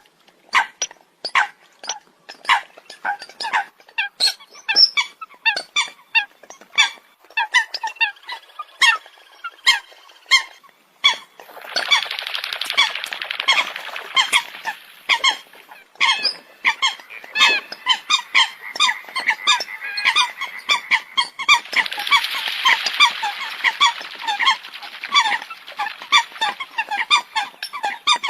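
Eurasian coots calling: a fast run of short, sharp calls. About a third of the way in, and again later, the calls thicken into a dense, overlapping flock chorus.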